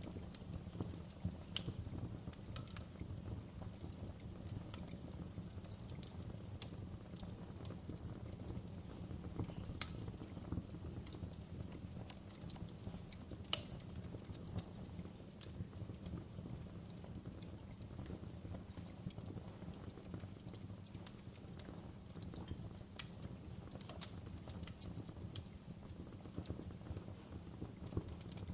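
Wood fire crackling in a fireplace: a steady low rumble with sharp pops and snaps at irregular intervals, a few of them louder than the rest.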